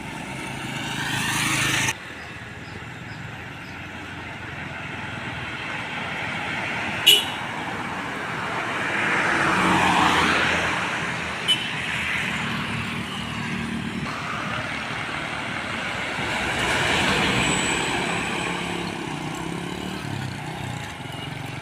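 Road traffic of heavy vehicles going past: engine and tyre noise swells as one passes about halfway through and another near the end. There are two brief sharp clicks in between.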